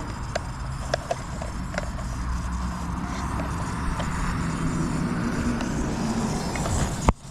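Blade Fusion 360 electric RC helicopter running, its motor and rotor giving a steady hum that rises a little in pitch after the middle, with scattered sharp clicks. The sound cuts off suddenly near the end.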